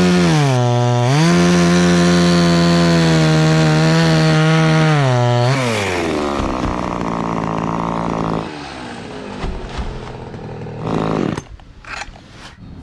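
Two-stroke chainsaw running at high revs, dipping briefly about half a second in, then released and winding down about six seconds in. Quieter after that, with a few sharp knocks near the end.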